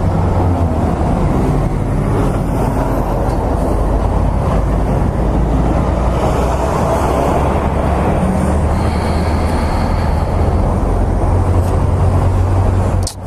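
Motorcycle running at a steady speed: a constant low engine drone under a loud rushing noise, which dips suddenly at the very end.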